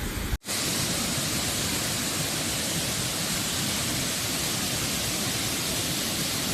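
Waterfall: a steady, even rush of falling water, starting just after a brief cut about half a second in.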